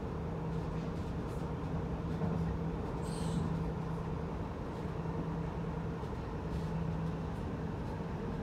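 Passenger train running at speed, heard from inside the carriage: a steady rumble with a constant low hum. A brief high squeak sounds about three seconds in.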